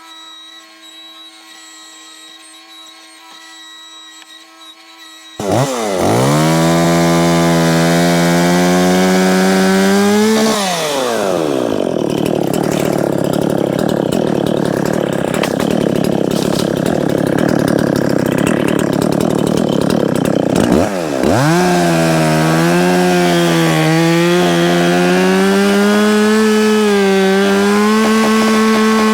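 A Dolmar 510 two-stroke chainsaw starts up loud about five seconds in, after a quieter steady hum, and revs with rising pitch. It then drops into a rougher, noisier sound for about ten seconds as it cuts through a rotted downed log. Near the end it revs high again, its pitch wavering.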